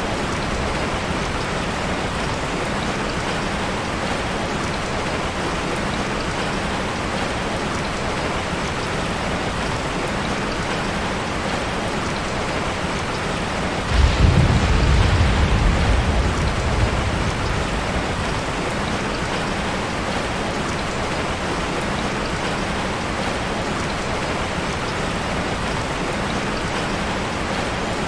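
Steady heavy rain falling, with a single rumble of thunder cracking in about halfway through and dying away over a few seconds.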